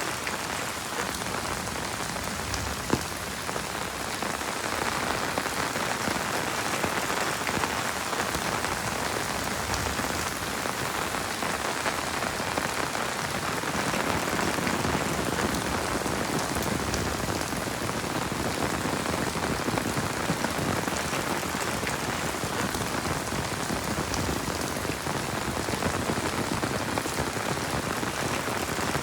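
Heavy rain falling steadily, a dense, even hiss of drops, with one sharp tap about three seconds in.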